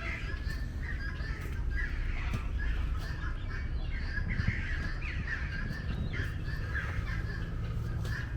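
Many birds calling at once in an aviary, a dense chatter of overlapping short, harsh calls, over a low rumble.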